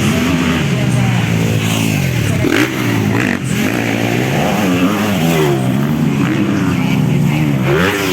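Several 250cc motocross bikes racing, their engines revving up and dropping back again and again as the riders work the throttle, with more than one engine heard at once.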